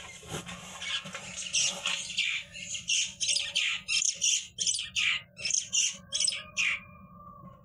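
A bird squawking repeatedly, a quick series of harsh, high calls at about three a second, over a steady low hum.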